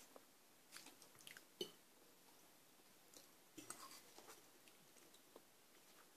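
Faint chewing and wet mouth sounds of people eating instant noodles: soft smacks and clicks in two short clusters, about a second in and again just past the middle.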